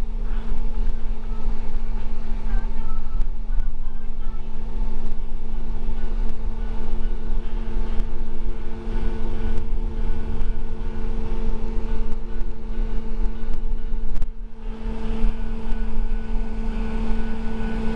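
School bus engine and road noise heard from inside the moving bus: a steady low drone and hum that dips briefly about fourteen seconds in.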